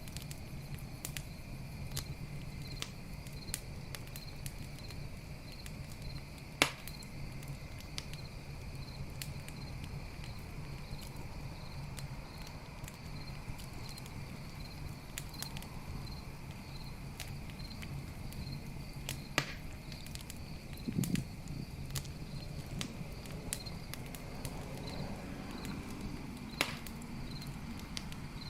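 Campfire crackling with scattered sharp pops, the loudest about a quarter of the way in. Night insects chirp steadily in an even pulse behind it. There is a short low thump a little past two-thirds through.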